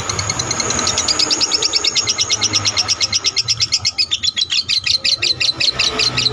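Lovebird singing its long 'ngekek': an unbroken, rapid chattering run of sharp, high chirps, about ten a second.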